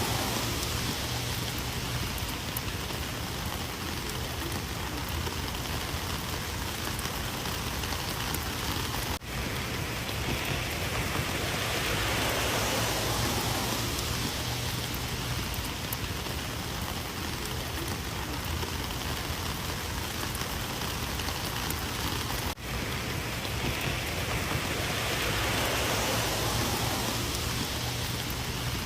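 Rain falling steadily, slowly swelling and easing, with two brief dropouts in the sound.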